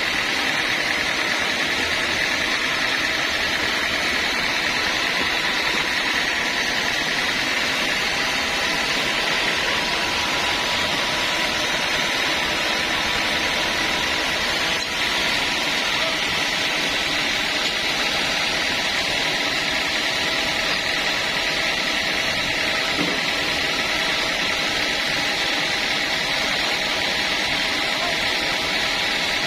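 Sawmill machinery running steadily at an even pitch and level, with a hiss concentrated in the upper-middle range and a faint steady hum.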